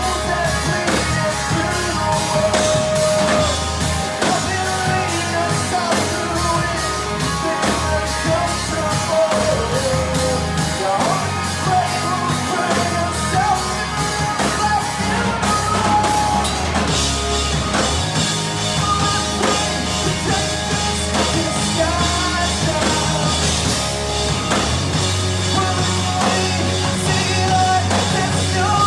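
A rock band playing a song, with singing over a drum kit and guitar.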